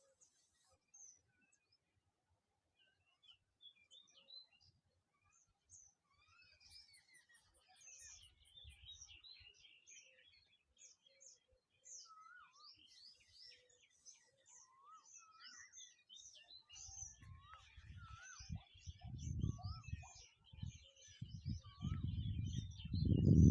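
Many small birds chirping and calling, with short high chirps and whistles overlapping throughout. In the last third a low rumbling noise builds up and becomes the loudest sound near the end.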